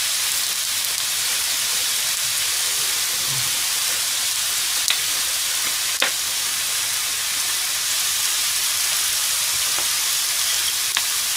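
Squid and an okonomiyaki frying in oil in two frying pans: a steady, high sizzle. A few light clicks come as noodles are dropped onto the squid, the loudest about six seconds in.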